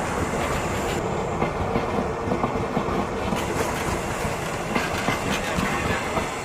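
Passenger train carriages rolling past, their wheels clattering steadily on the track.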